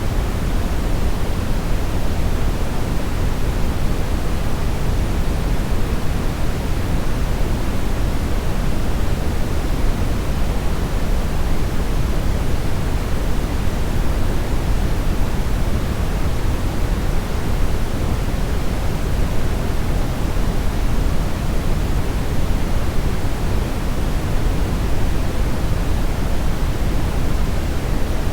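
Steady brownish noise: an even, unbroken hiss weighted heavily toward the low end, deep and rumbly with little treble, that does not change.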